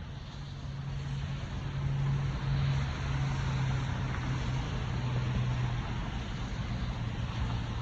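Steady low hum of a running vehicle with a wash of noise over it, growing a little louder over the first two seconds and then holding.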